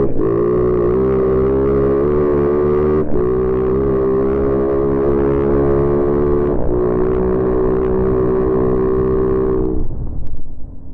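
A dirt bike engine held at high revs under full throttle, with two brief breaks in its steady note, about three and six and a half seconds in, as it is shifted up a gear. Near the end the throttle is shut and the engine note drops away, leaving a low rumble of wind and tyres.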